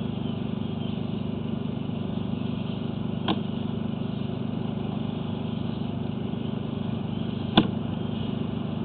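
Steady low mechanical hum, like a running motor, with two faint clicks about three and seven and a half seconds in.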